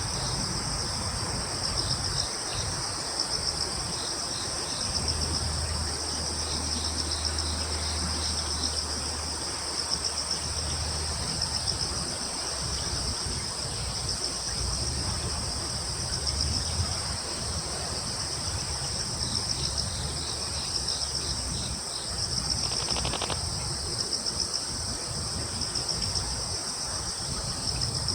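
A chorus of crickets and other insects trilling steadily at a high pitch, with runs of short pulsed chirps from another insect coming and going. A low rumble sits underneath.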